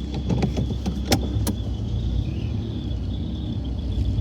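Car engine idling with a novelty turbo whistle pushed loosely into the exhaust tailpipe, giving a thin, steady high whistle over the engine. A few sharp clicks and knocks come in the first second and a half.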